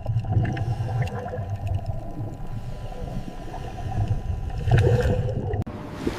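Seal sound: a low rumbling call over water noise, swelling louder about five seconds in. It cuts off abruptly near the end and gives way to a hiss of surf.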